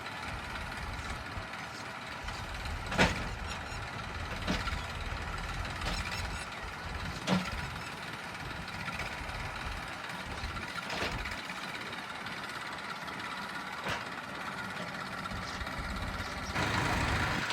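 A heavy machine's diesel engine running steadily, with a few sharp knocks or clanks at intervals; it grows louder near the end.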